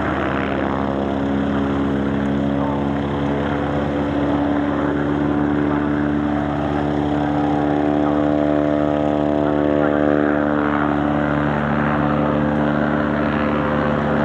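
Aircraft engine droning steadily in a pitched hum that grows stronger about halfway through, then eases.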